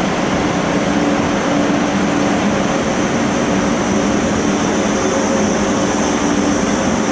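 Steady mechanical hum of a train standing at a station platform, with two low steady tones under an even noise.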